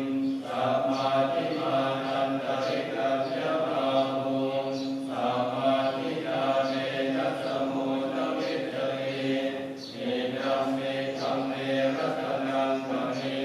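Voices chanting on long held notes over a steady low drone, in phrases that break off and start again about every five seconds.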